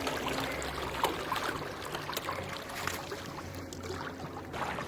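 Small boat moving across a lake, water washing and trickling against the hull, with a low steady hum and a few light knocks.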